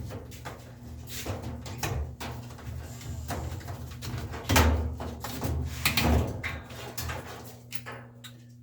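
Irregular knocks and thumps of washer parts and tools being handled during a top-load washer tub replacement, over a faint steady low hum.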